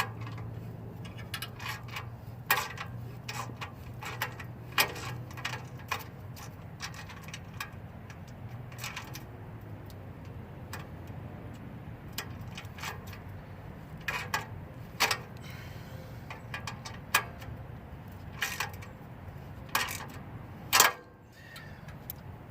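Wrench and socket working the steel muffler clamp and bracket bolts: scattered metal clicks and clinks at an uneven pace, the loudest near the end. A steady low hum in the background cuts out just after that loudest click.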